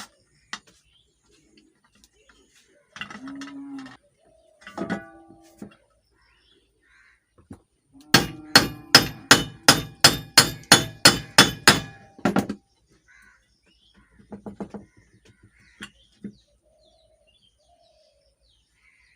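Hammer blows driving a ceiling fan bearing out of its wax-packed housing: a steady run of about fifteen sharp, ringing metal strikes, three or four a second, with a few lighter taps a little later.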